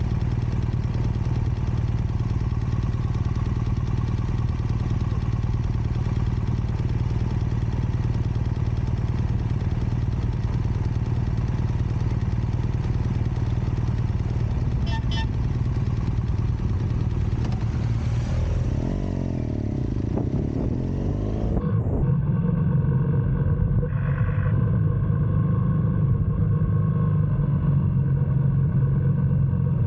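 GS motorcycle engine running steadily while riding. About two-thirds of the way in, the engine note slides up and down in pitch as the speed changes, then it settles into a steady note again.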